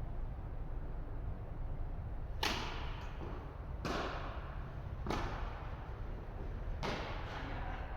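Tennis ball struck by rackets four times in a rally, each hit a sharp pop with an echoing tail from the indoor court.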